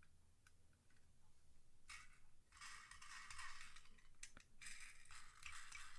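Faint rustling and scraping with a few light clicks, from hands handling a small die-cast toy van and its packaging.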